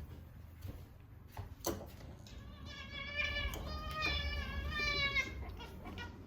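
Calico cat giving one long, wavering meow of about three seconds, begging for food at mealtime. A faint click comes just before it.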